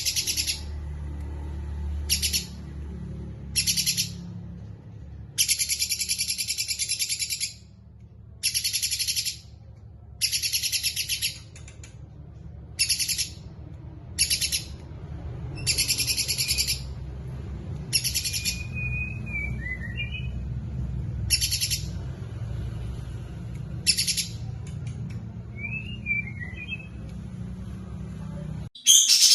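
A songbird repeating short, harsh buzzing trills, about fourteen bursts of half a second to a second and a half each. Another bird gives a brief thin whistled phrase twice in the later half, over a steady low rumble. The sound cuts off suddenly just before the end.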